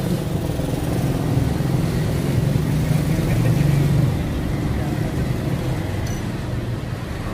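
Road traffic rumbling past: a steady low engine and tyre rumble that swells for a few seconds as a vehicle goes by, then eases.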